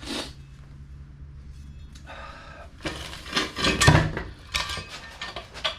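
Metal parts and tools clanking and clinking: a run of irregular knocks and rattles starting about two seconds in, loudest about four seconds in.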